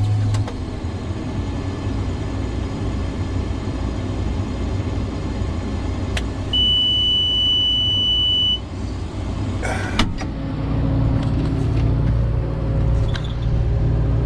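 Truck diesel engine idling with a steady low rumble. A single high beep lasts about two seconds, a sharp clunk comes about ten seconds in, and the engine then runs louder.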